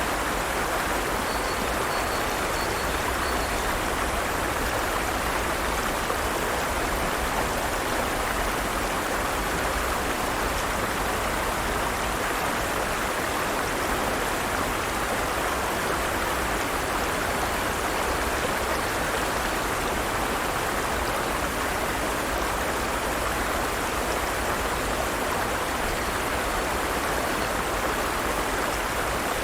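Forest stream water running steadily over rocks, an even rushing splash with no change in level.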